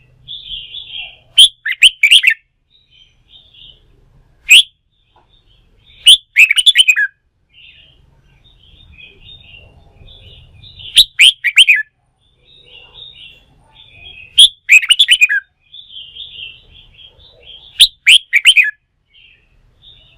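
Red-whiskered bulbul song: loud, short whistled phrases every few seconds, with quieter chattering calls between them.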